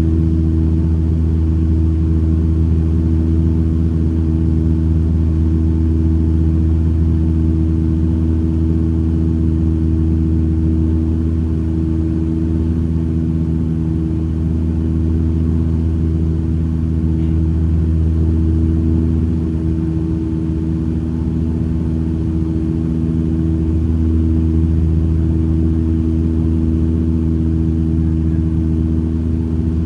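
Aircraft engines heard inside the passenger cabin on approach to landing: a steady low drone with a hum of several even tones, swelling and easing slightly.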